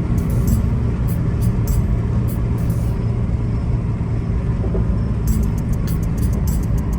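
Car driving slowly, heard from inside the cabin: a steady low rumble of road and engine noise. Over it comes a rapid high-pitched ticking, several times a second, that drops out for about two seconds in the middle.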